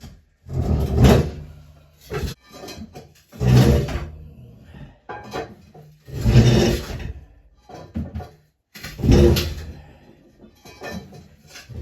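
A heavy South Bend lathe being shifted across the floor in repeated heaves: a loud scrape or grind about every three seconds, each lasting around a second, with small knocks between.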